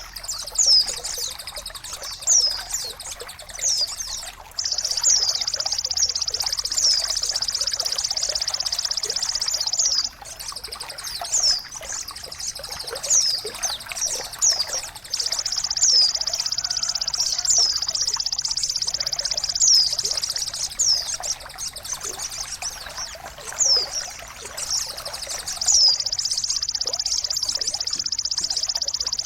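Bird-therapy soundtrack: trickling, splashing water under a steady high hiss, with a small bird's short falling chirps repeating about once a second. The hiss cuts in and out abruptly several times, as if looped segments are joined.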